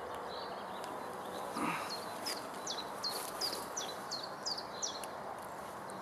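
A songbird calls a run of about eight quick, high notes, each dropping in pitch, roughly three a second, over a soft steady background hiss.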